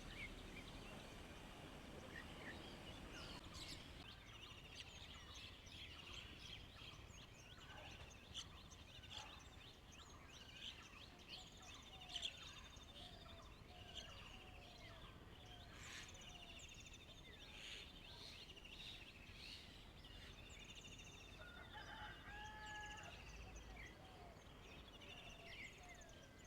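Faint chorus of several wild birds: many quick high chirps and trills, a run of lower short repeated calls in the middle, and a few clear whistles near the end.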